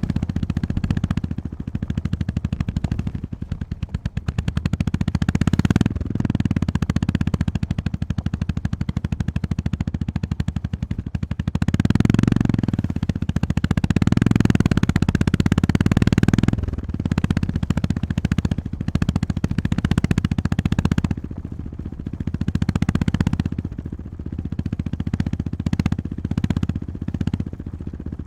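Honda GB350S's air-cooled single-cylinder engine running on the move, its exhaust beat rising and falling with the throttle. It is loudest in a long pull about halfway through and eases off twice.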